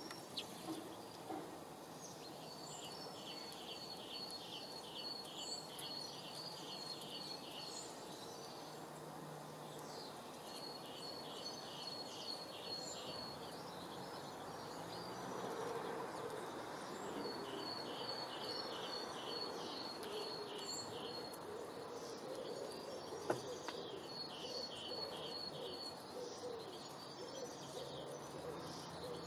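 A songbird repeating a short phrase of quick, evenly spaced high notes, each phrase about three seconds long, four times over, against a steady background noise.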